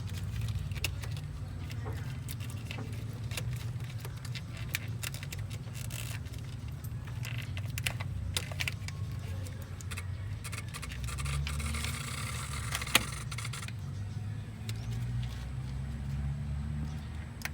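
Metal clinking and scraping, like tools or parts being handled, over a steady low hum. There is a short hiss about eleven seconds in, and one sharp click just before it ends, which is the loudest sound.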